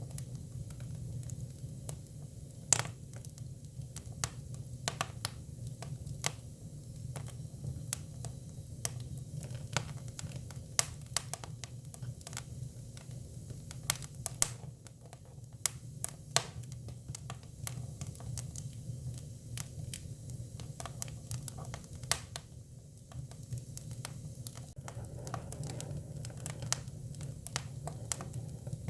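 Hinoki cypress firewood burning: irregular sharp crackles and pops, a few much louder than the rest, over a steady low rumble of the fire.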